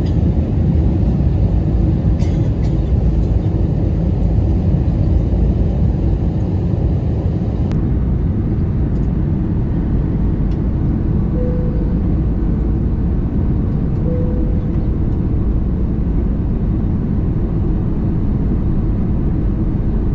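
Steady low rumble of engines and rushing air inside the cabin of an Airbus A320neo airliner, even throughout with no change in pitch.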